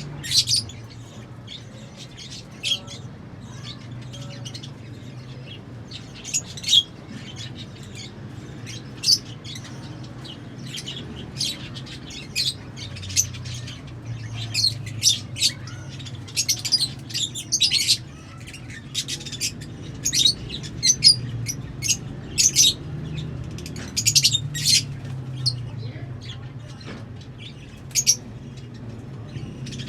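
Lovebirds chirping in many short, sharp, high calls at an irregular pace, busiest in the middle of the stretch, over a steady low hum.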